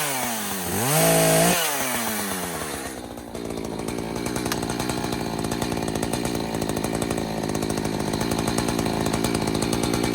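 Echo CS-590 TimberWolf two-stroke chainsaw revving, its pitch dipping and climbing twice near the start. From about three seconds in it settles into steady low running.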